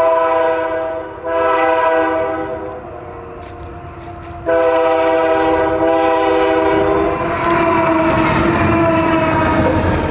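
Locomotive air horn sounding as the train reaches the tracks where the people stand: two blasts close together, then a long blast from about four and a half seconds in that drops slightly in pitch as the locomotive goes past. Under the last blast the rumble and clatter of the passing train rises and carries on to the end.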